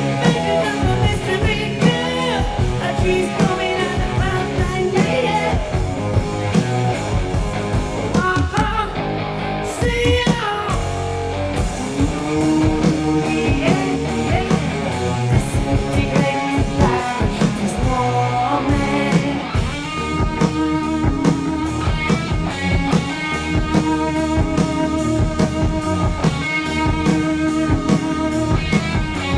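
Hard rock recording playing: a heavy, driving electric guitar riff over bass and a drum kit, with a male lead vocal. About twenty seconds in, the music settles into a steady repeating riff.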